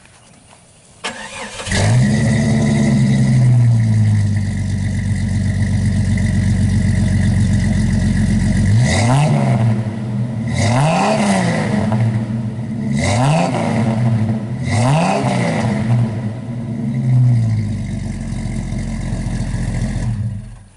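1996 Jeep Cherokee Classic engine with a single-outlet Flowmaster 40 series muffler, started up: it catches about two seconds in at a high idle that settles. It idles, is revved four times in quick blips, settles back to idle and is shut off just before the end.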